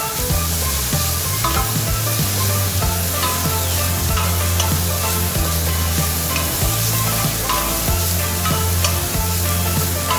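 Food sizzling while being stir-fried in a hot pan, with a spatula scraping and clicking against the pan at irregular moments. Background music with a steady bass line plays throughout.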